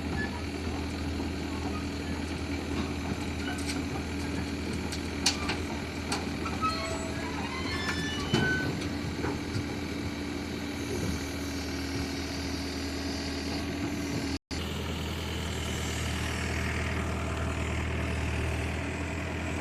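Mini excavator's diesel engine running steadily, with a few sharp metallic clanks about five to eight seconds in.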